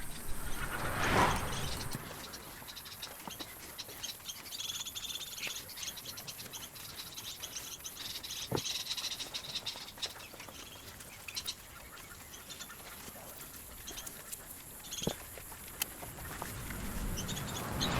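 Birds chirping faintly in the background, with a brief rustle about a second in and a couple of light taps later on.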